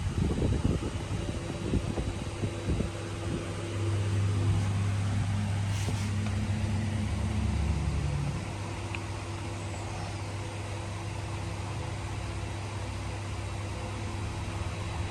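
A vehicle engine running with a steady low hum that swells for a few seconds about four seconds in, then drops back and holds steady.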